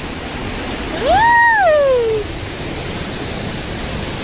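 Steady rushing of a waterfall and river. About a second in, one long call rises, holds and falls away, louder than the water.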